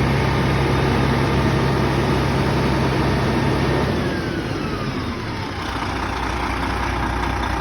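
Engine running steadily at high idle; about four seconds in, its speed falls away over a second or two and it settles back to a lower idle.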